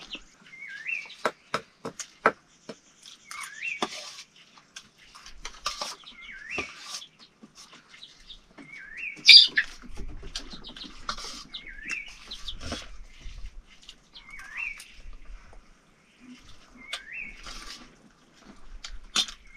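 A bird calling over and over: a short whistle that dips and then rises, repeated every two to three seconds. Scattered sharp clicks and knocks sound between the calls.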